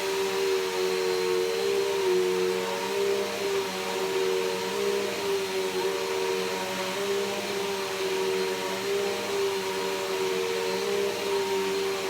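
Bissell PowerForce Helix Turbo upright vacuum cleaner running steadily, a motor whine over airflow hiss, its pitch dipping slightly now and then.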